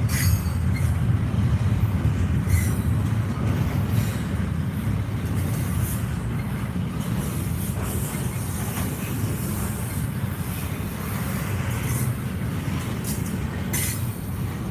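Double-stack container freight train rolling past at close range: a steady low rumble of wheels on rail, with brief high wheel squeals every few seconds.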